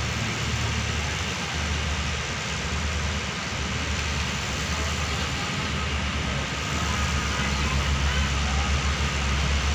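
Diesel engine of an Alsthom ALS diesel-electric locomotive, re-engined with an MTU diesel, running steadily with a low hum, growing somewhat louder about seven seconds in.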